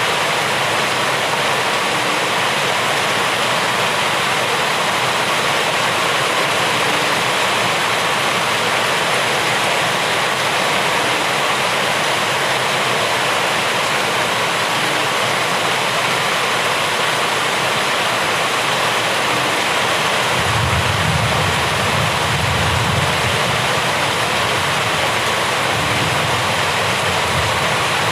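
Steady heavy rain, an even hiss with no let-up. A deeper low rumble joins about two-thirds of the way through.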